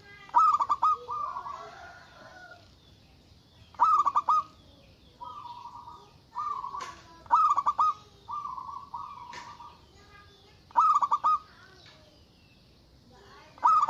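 Zebra dove (perkutut) cooing: a sharp, stuttering phrase repeated about every three and a half seconds, with softer drawn-out coos in between.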